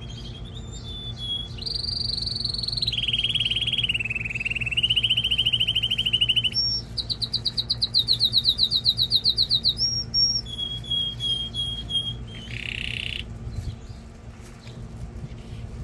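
Male domestic canary singing: a string of fast trills and rolls, each phrase held a few seconds at its own pitch before switching, with one rapid stretch of about ten notes a second. The song stops about 13 seconds in, and a steady low hum runs underneath.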